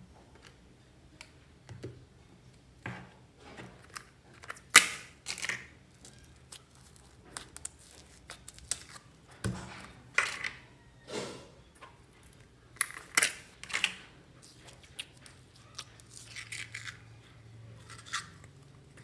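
Slime being worked and squished by hand while several slimes are mixed together, giving irregular short sticky pops and squelches, the loudest about five seconds in.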